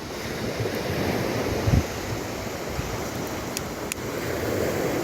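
Strong gusty wind, buffeting the microphone in low thumps, with the rush of wind-driven waves on the shore. A few faint sharp crackles from the campfire come through a little after halfway.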